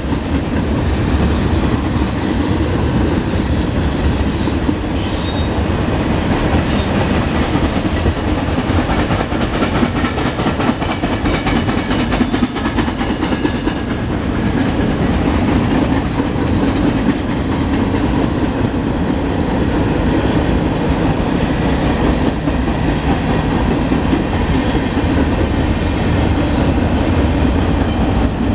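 Freight train cars (tank cars, covered hoppers and boxcars) rolling past at steady speed: a continuous low rumble with the clatter of wheels over rail joints. A few brief high screeches come from the wheels about three to six seconds in.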